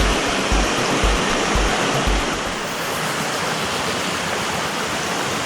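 Steady, loud rushing of falling water. Over the first half a music track's deep kick-drum beat thuds about twice a second and stops roughly halfway through.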